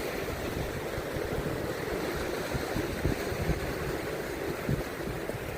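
Steady wind rushing and buffeting the microphone, with irregular low gusty thumps.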